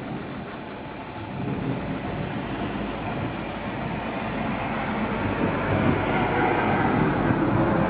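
Rolling thunder: a long, low rumble that builds steadily in loudness over several seconds.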